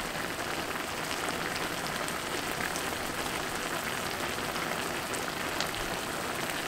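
Chow mein stir fry of Dall sheep, noodles and vegetables sizzling in a wok, a steady crackling hiss as the sauce cooks down.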